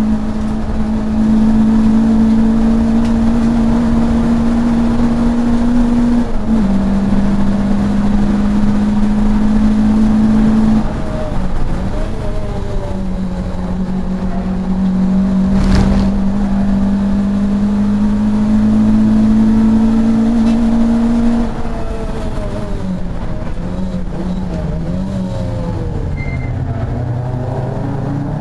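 Racing saloon car engine heard from inside the cockpit, held at high revs with a slowly rising note, broken by gear changes about 6 and 11 seconds in. A sharp knock comes about 16 seconds in. Past 20 seconds the revs drop and waver as the driver lifts and shifts down, then climb again near the end.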